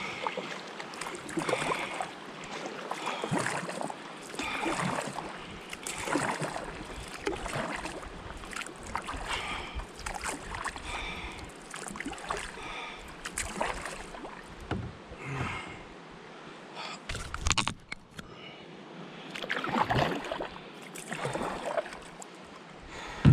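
Canoe paddle strokes pulling through water with splashes, about one stroke every second and a half, and a low thump about seventeen seconds in.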